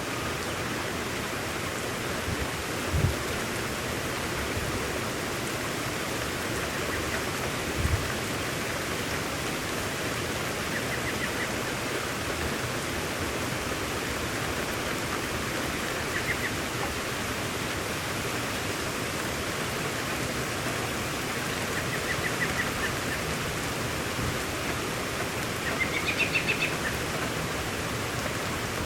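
Steady rain falling, an even hiss. A bird chirps briefly several times, most clearly near the end, and there are two short low thumps, about three and eight seconds in.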